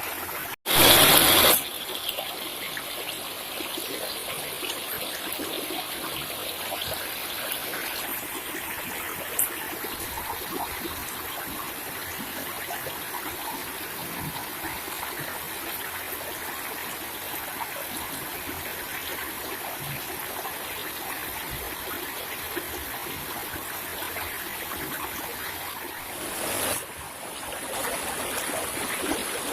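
Water trickling and running steadily, like a small stream. A short, very loud burst comes about a second in.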